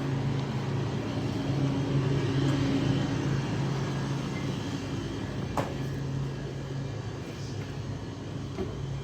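Steady low hum of a car engine running, with a single sharp click about five and a half seconds in.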